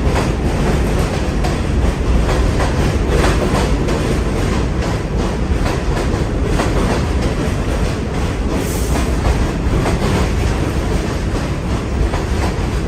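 New York City subway A train running on the tracks: a loud, steady rumble with scattered clacks of the wheels over the rails.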